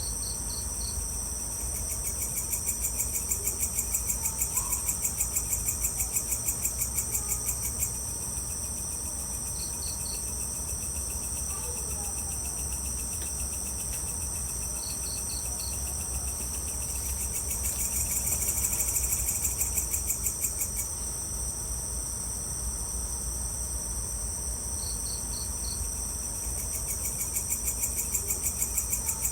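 Evening chorus of crickets and other insects: a steady high-pitched buzz, a pulsing trill that swells in and fades out three times, and short chirps in groups of three or four every several seconds, over a faint low rumble.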